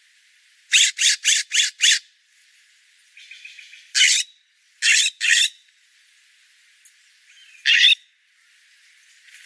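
A bird giving loud, harsh calls: a quick run of five about a second in, then single and paired calls, with faint chatter between them.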